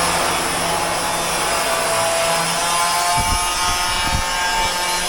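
A power tool running steadily with a harsh cutting or grinding noise, and a few dull knocks about three and four seconds in.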